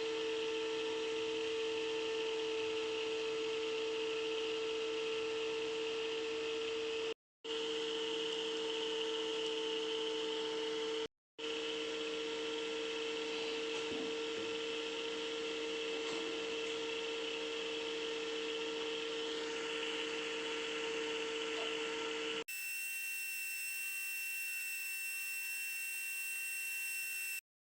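Small handheld rotary tool (mini drill or grinder) running steadily at constant speed, a high motor whine over a hiss of grinding, cut off abruptly twice. Near the end it gives way to a different steady whine.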